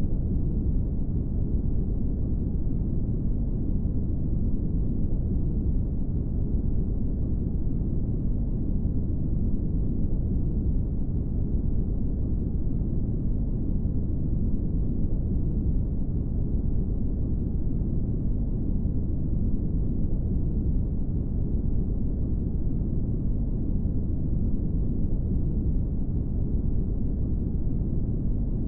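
Brown noise: a steady, deep rumbling hiss with no rhythm or change, its energy concentrated low and falling away toward the treble.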